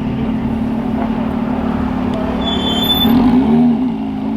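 Car engine running steadily, with a brief rise and fall in engine pitch about three seconds in, like a light rev.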